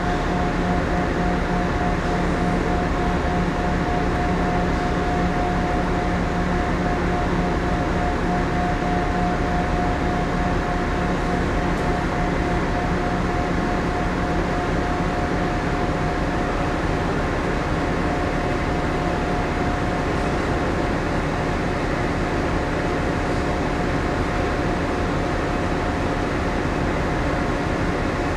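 Steady hum of the second-generation Ogasawara Maru's onboard machinery and ventilation, heard inside the moored ship, with a constant mid-pitched tone over it.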